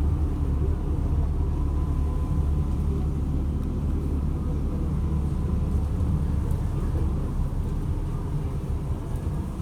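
MAZ-206 city bus heard from inside while riding: a steady low rumble of the engine and road, with no sudden events.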